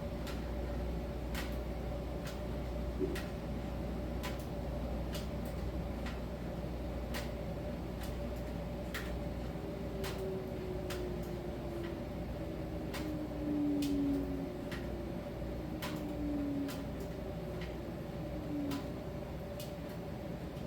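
Miele T1 heat-pump dryer running in its drying phase: a steady hum with light clicks about once or twice a second as the drum turns, and a faint falling whine for a few seconds in the second half.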